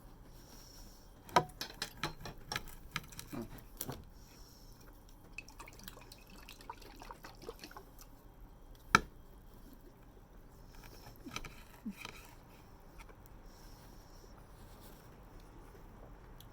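Eating sounds at the table: wet mouth noises with scattered sharp clicks, a quick run of them in the first few seconds and one loud click about nine seconds in.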